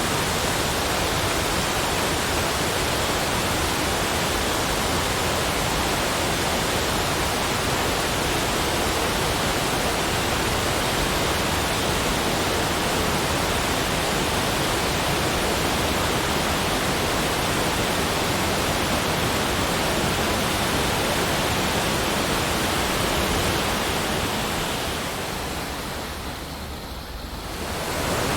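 Steady, even rushing hiss with no separate events. It fades down over a few seconds near the end and then swells back up, like a track looping or crossfading.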